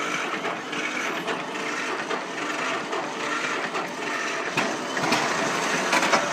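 John Deere Model B's two-cylinder engine being cranked over on the starter without catching; it has been tried without choke and needs a little choke to start.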